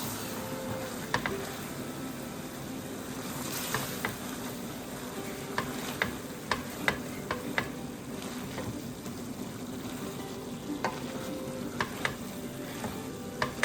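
Food sizzling and frying in a pan, with a steady hum underneath and irregular sharp clicks and taps of kitchen utensils.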